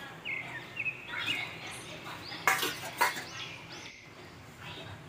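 Small birds chirping in short rising and falling calls, with two sharp clinks about half a second apart around the middle.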